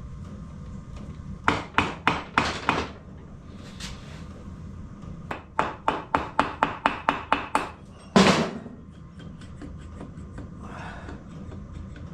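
Hammer blows on a Royal Enfield engine's cylinder head to break it free: a short run of about five sharp knocks, then a faster run of about a dozen at roughly five a second, then one louder, longer knock as the stuck head starts to loosen.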